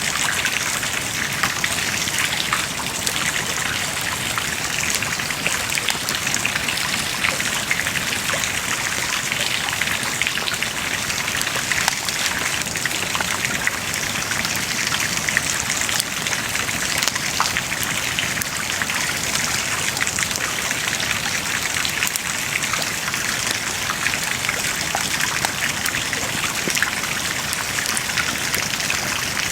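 Wood bonfire burning with a steady crackle and hiss, full of small pops.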